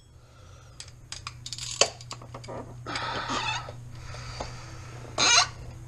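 Hand tools clinking and knocking against metal bolts and brackets while a power steering pump's 14 mm fasteners are worked loose by hand, in scattered light clicks that come thickest about a second or two in. A steady low hum runs underneath, and a brief rush of noise comes near the end.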